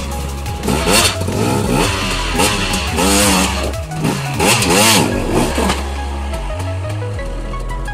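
Enduro dirt bike engine revving in repeated short blips, the pitch rising and falling back each time, as the bike is pushed over rocks on a steep climb. Background music with a steady bass plays underneath.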